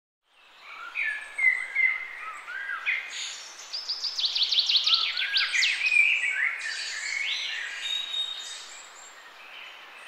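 A mix of small birds singing and calling, with whistled calls and a fast run of sharp descending notes a few seconds in.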